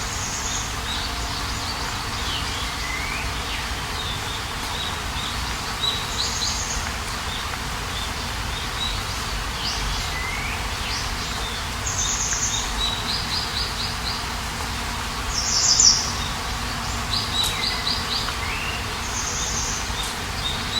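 Songbirds singing in short repeated phrases: quick high trills and downward-sliding whistles every few seconds, over a steady background hiss of outdoor ambience.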